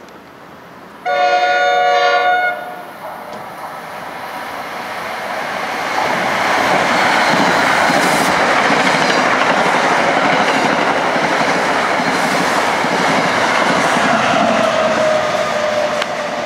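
NJ Transit commuter train sounding its horn in a single chord blast lasting about a second and a half, then passing at speed with a loud, steady rush and clatter of wheels on rail. A faint falling whine comes in near the end.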